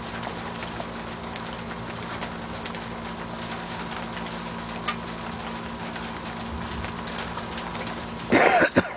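Steady rain and hail falling, a constant hiss scattered with small ticks of hailstones striking. Near the end a short, loud voice-like sound with a bending pitch breaks in.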